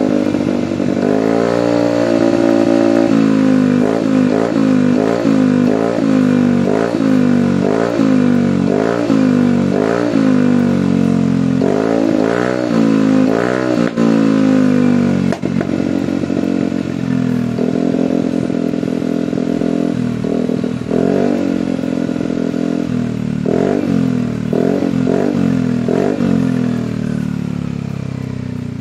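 Yamaha NMAX scooter's single-cylinder engine running through an aftermarket DOS oval long-silencer exhaust, blipped again and again from idle in quick rising-and-falling revs, settling to idle midway, then blipped again several times. It still pops now and then, which the owner puts down to the CO mixture not yet being set to suit the exhaust.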